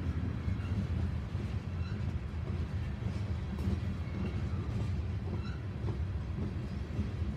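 Covered hopper cars of a freight train rolling past, a steady low rumble of steel wheels on rail.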